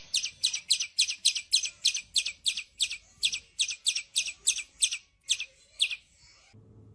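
Bird giving a rapid, even series of short, sharp calls, about three to four a second, in angry alarm, then falling silent about six seconds in.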